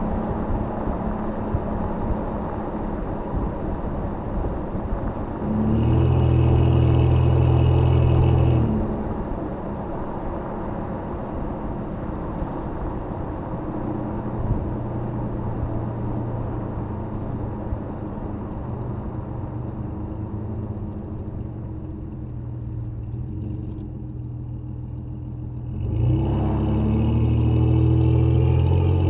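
Engine and exhaust of a 2005 Jeep Grand Cherokee with a Thrush welded muffler, running steadily while driving. It gets clearly louder twice under more throttle: for about three seconds some six seconds in, and again near the end.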